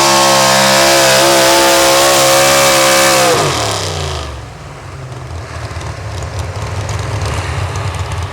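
Pulling truck's engine held at high revs under full throttle, then dropping sharply in pitch about three seconds in as the throttle is released at the end of the pull. It then runs on as a lower rumble that slowly builds again.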